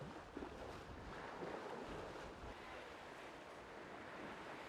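Faint, steady rush of sea water and wind around an ocean racing yacht under way.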